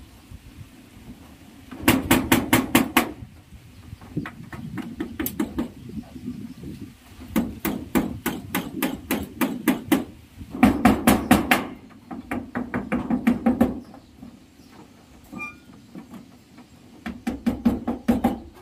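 Hammer driving nails in quick bursts of about six blows a second, with short pauses between the bursts.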